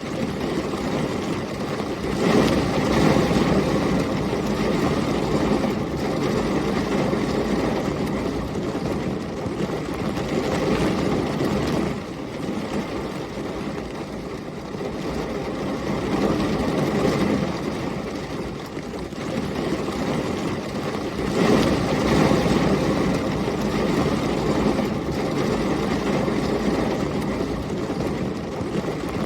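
Heavy rain and storm wind as one dense, steady rushing noise, swelling louder twice: about two seconds in and again about 21 seconds in.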